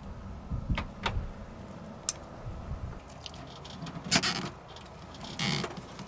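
Hands working on a truck's light-bar wiring: a few small clicks and handling noises, with two short rasping noises about four and five and a half seconds in.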